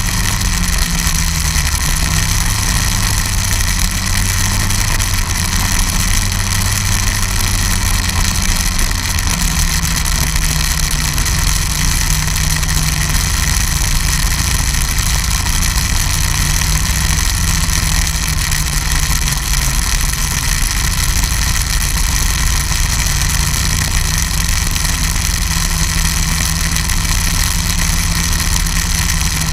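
Snowmobile engine running steadily at a constant pitch and level.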